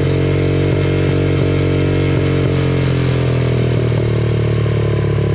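Small dirt-bike engine idling steadily.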